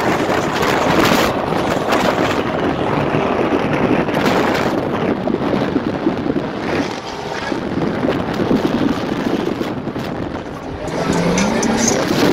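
Procharger-supercharged Corvette V8 engines running hard at speed, with heavy wind noise on the microphone; a rising engine note near the end.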